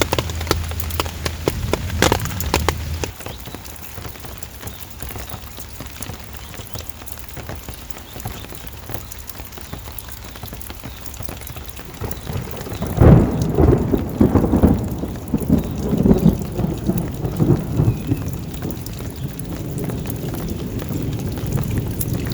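Steady rain falling, with a loud low rumble of thunder rolling in about halfway through and coming in waves for several seconds.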